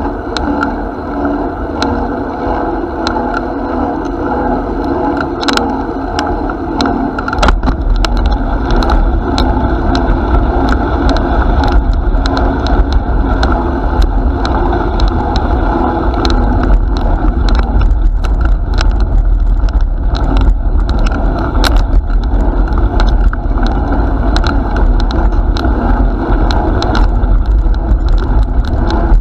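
Steady rumble of wind and rolling noise while riding a bicycle, with scattered small clicks and rattles. The low rumble gets suddenly louder about seven seconds in.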